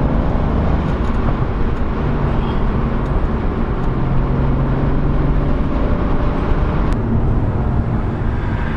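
Mercedes-AMG C63's 4.0-litre twin-turbo V8 running at a steady engine speed in Sport Plus mode, heard from inside the cabin, with a single sharp click about seven seconds in.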